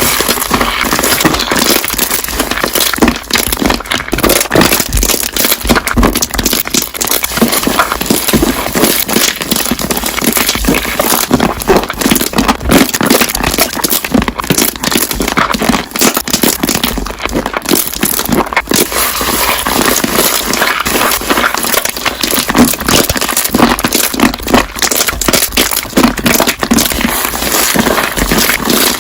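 Slime being pressed and squished so that its trapped air bubbles pop, a dense, continuous run of sharp crackles and clicks.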